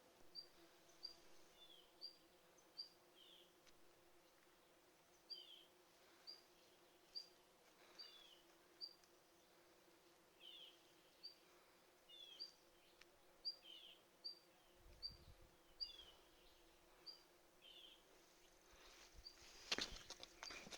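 Faint bird calls: short high chips repeating roughly once a second, mixed with lower down-slurred notes, over a faint steady hum. Near the end, a run of rustling clicks.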